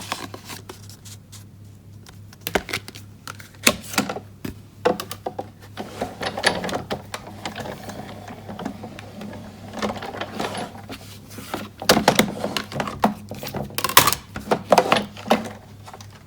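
Sizzix Big Shot manual die-cutting and embossing machine, hand-cranked to roll cardstock in an embossing folder through its rollers: a run of clicks and knocks with a few longer, noisier stretches.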